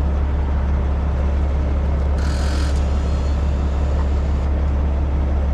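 Heavy truck diesel engine running steadily, a deep drone, from the rotator wrecker at the scene. About two seconds in, a short hiss sounds for under a second.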